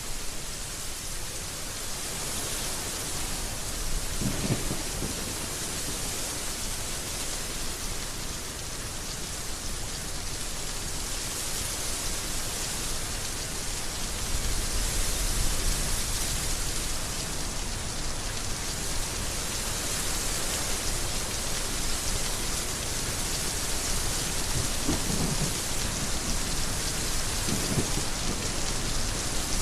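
Heavy rain falling steadily. A low rumble of thunder swells about halfway through.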